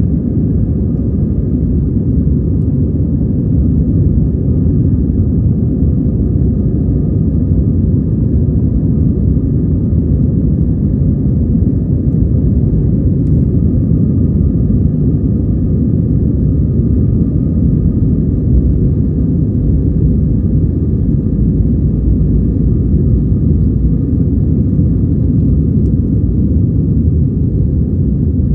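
Airbus A320 cabin noise during takeoff: a steady, loud rumble of the jet engines at takeoff power, with a few faint, steady whining tones above it.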